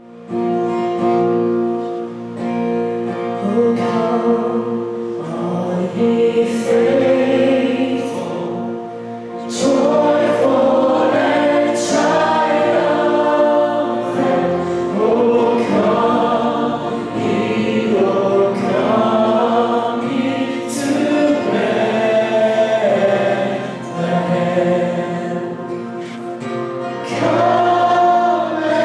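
A choir singing a Christmas song, with sustained held chords underneath, fading in at the very start.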